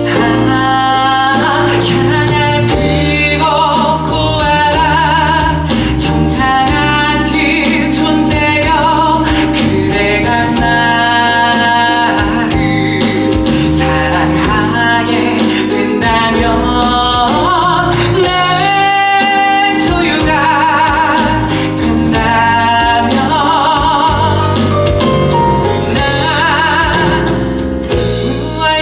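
Live musical theatre song: voices singing sustained notes with vibrato over instrumental accompaniment.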